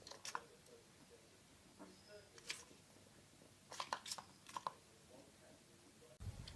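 Faint scattered clicks and rustles in a quiet room: a few short ticks, with a small cluster of them about four seconds in.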